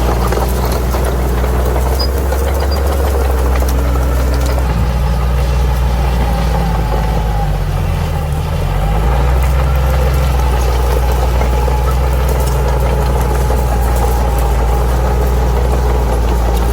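Bulldozer's diesel engine running steadily. About halfway through, its pitch briefly drops and then climbs back, as if it bogs under load and recovers.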